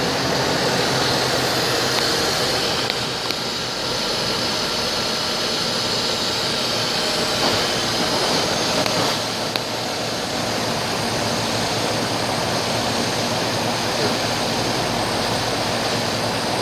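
2007 GMC Envoy engine running steadily at idle, with an even, unchanging drone.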